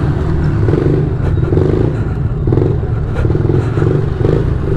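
Small pit-bike engine running under load while riding, the throttle rising and easing off again and again.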